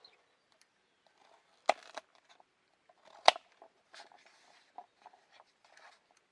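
Small handling sounds, faint taps and rustles, with two sharp clicks or knocks about a second and a half apart, the second the louder.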